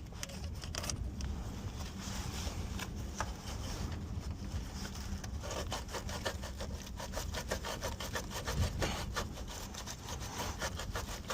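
Hand wire brush scrubbing a part clean with quick back-and-forth strokes, a scratchy rasping that gets busier about halfway through.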